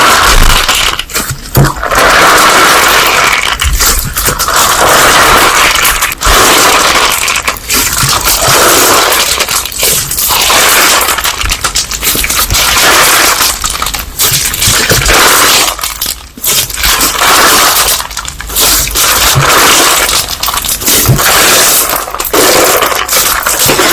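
Slime being played with by hand, squeezed and pressed in a loud continuous noisy stream broken by short pauses every second or two.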